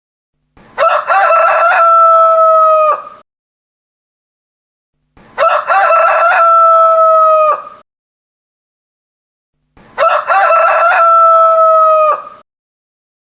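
A rooster crowing three times, the same crow repeated about every four and a half seconds. Each crow lasts about two and a half seconds and ends in a long held note, with complete silence between them.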